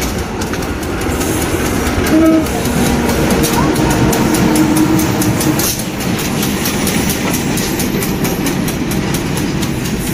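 Indonesian CC 201 diesel-electric locomotive hauling a passenger train past at close range, engine running over the rumble of the wheels. Its horn sounds about two seconds in and cuts off suddenly about six seconds in, after which the coaches roll by with wheels clattering over the rail joints.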